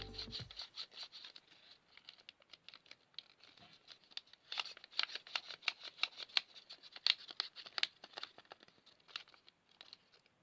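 Origami paper being handled and folded: a quick, irregular run of small crinkles and taps, loudest through the middle. The tail of music dies away at the very start.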